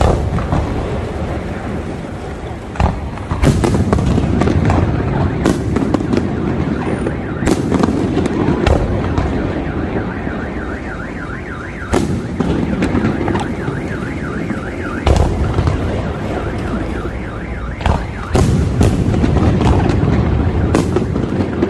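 Aerial fireworks display: sharp shell bursts every few seconds over a continuous rumble and crackle of smaller explosions. A warbling, wavering tone sounds for several seconds through the middle.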